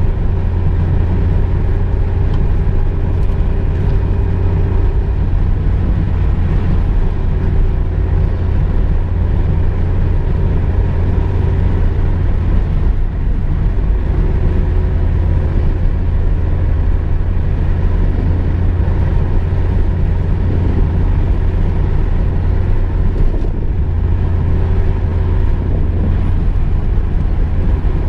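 A car driving at a steady pace: a continuous low engine and road rumble, with faint steady engine tones above it and no change in speed.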